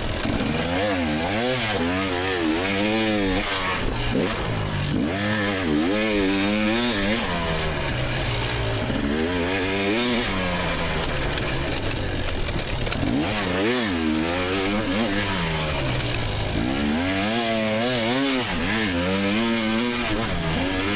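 2024 GasGas EX300 two-stroke dirt bike engine revving hard and dropping back again and again, in swells about every four seconds, with a wavering, warbling pitch.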